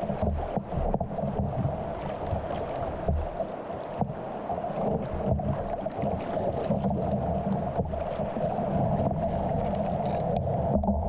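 River water running around a kayak, with irregular splashes and knocks from paddle strokes.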